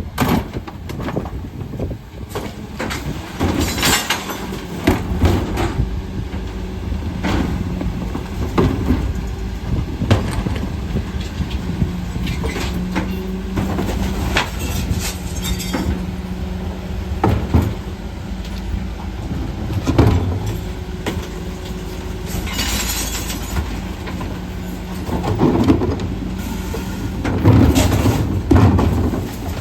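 Mercedes Econic refuse truck with a Faun Variopress body running at the kerb, a steady hum from the engine and hydraulics. Repeated bangs and clatter of wheelie bins are lifted and emptied by the Zoeller lifters. There are two brief hisses, about four seconds in and about two-thirds of the way through.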